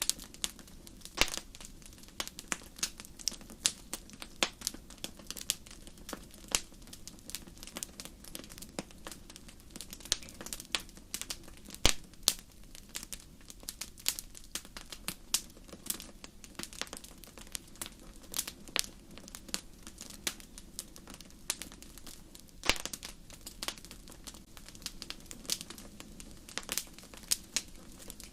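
Wood fire in a fireplace crackling, with frequent irregular sharp pops and snaps over a low steady hiss of the flames.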